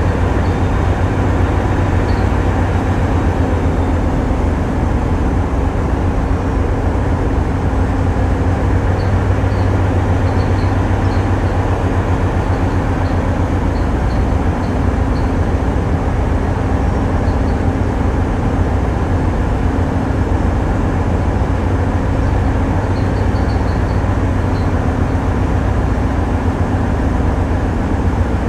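Tugboat's diesel engines running steadily: a loud, constant low drone with a steady hum.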